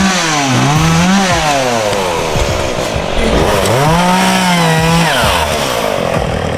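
Chainsaw felling trees, its engine revving up to full speed and dropping back, twice: once in the first second or so and again about four seconds in.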